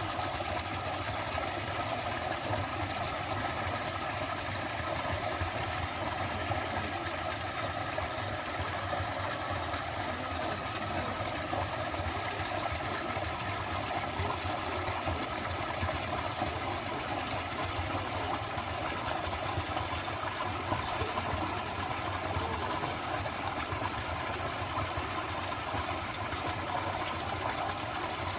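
A dense chorus of frogs calling together, a steady rapidly pulsing drone that holds evenly throughout.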